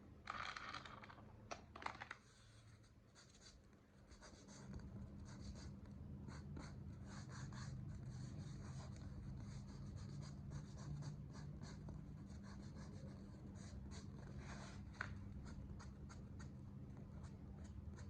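Faint, scattered clicking and scratching of small candies being handled in a toy tub, over a low steady hum that comes in about four seconds in.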